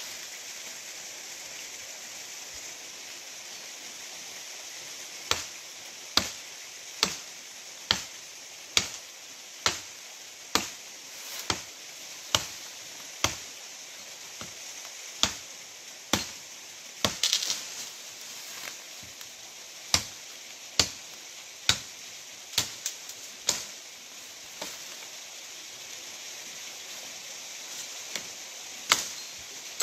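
Sharp chopping strikes, about one every second, starting about five seconds in and running in steady runs with a few gaps, over a constant rush of running water.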